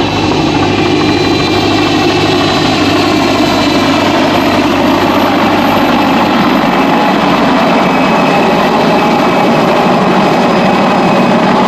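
PZL Kania helicopter's twin Allison 250 turboshaft engines and rotor running steadily and loudly, with a constant high turbine whine over the engine and rotor noise.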